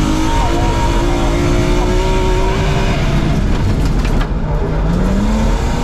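BMW E36 rally car's engine heard from inside the cabin, pulling hard at a steady pitch for about three seconds. It then lets off briefly with a few knocks and climbs in pitch again as it accelerates near the end.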